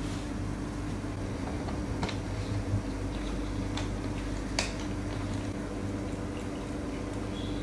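A steady low hum of a running appliance, with a few sharp light clicks or taps over it, the clearest about two seconds in and just past four and a half seconds.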